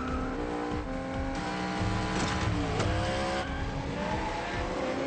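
Car engines revving hard, their pitch stepping and sweeping up and down, with tyre squeal in a movie car-chase sound mix.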